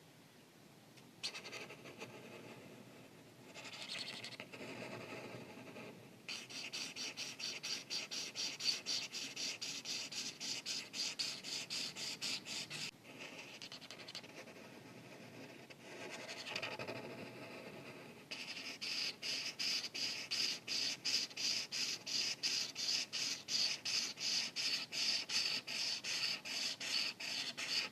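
Art marker rubbing on paper in rapid back-and-forth colouring strokes, about four a second, with slower, smoother strokes in two short stretches between the runs.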